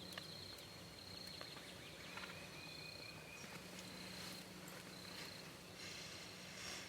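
Quiet outdoor ambience: a faint, high steady trill that comes and goes in short stretches, over a low steady hum.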